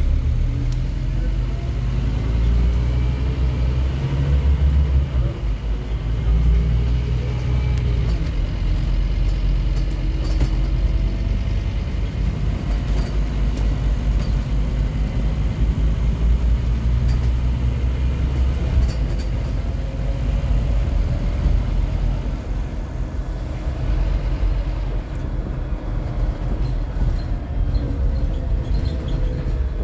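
Scania N230UD OmniCity double-decker bus's diesel engine, a 9-litre five-cylinder, accelerating hard with the throttle floored, its pitch rising again and again as the automatic gearbox works up through the gears over a heavy low rumble.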